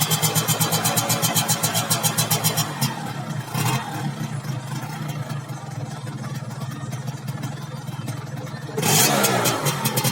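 Yamaha F1ZR's two-stroke single-cylinder engine running through its original black exhaust with the baffle gutted, which makes it louder. It is held at raised revs, blipped once around 4 s, falls to a quieter idle, then is revved up again near the end.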